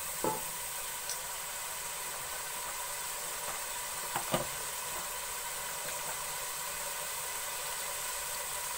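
Tomato and spice masala sizzling steadily in oil in a metal pot after a little water was added to keep it from burning, with a few light knocks of a wooden spoon against the pot, a pair of them about four seconds in.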